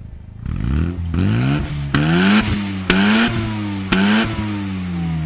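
1993 Mazda RX-7 FD's 13B twin-rotor rotary engine, through an HKS muffler, revved in five quick blips that climb and drop in pitch, with a sharp crack at the top of three of them, then falling back toward idle.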